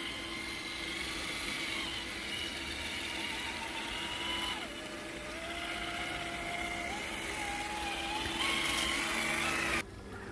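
Electric motor of a 1/10-scale RC crawler truck whining as it drives, its pitch stepping down and back up several times with the throttle, then cutting off suddenly near the end.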